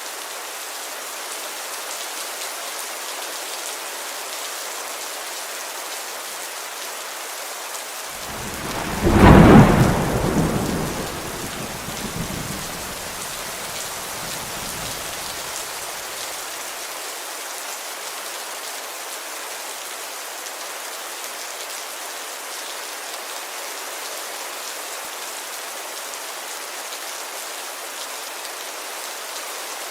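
Steady heavy rain pattering on a window pane. About nine seconds in, a loud clap of thunder rumbles and dies away over several seconds.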